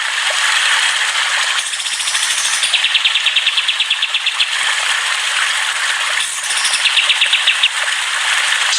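Songbirds chirping in a dense chorus, with fast rattling trills of about fifteen notes a second, two long ones standing out.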